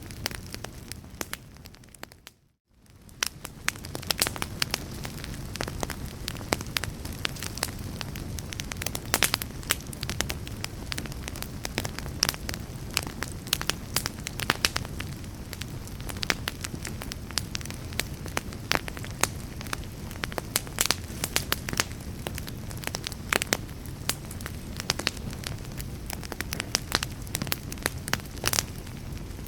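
Wood fire crackling, with many sharp pops over a steady low rumble. The sound fades out briefly about two seconds in and comes back within a second.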